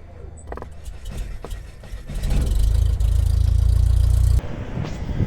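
A combustion engine running with a low, steady hum that gets much louder about two seconds in, then cuts off abruptly.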